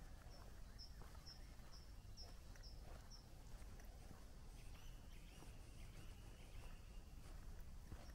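Faint birdsong: a small bird repeats a short high chirp about twice a second for a few seconds, then gives a lower, wavering phrase. Soft footsteps tick underneath.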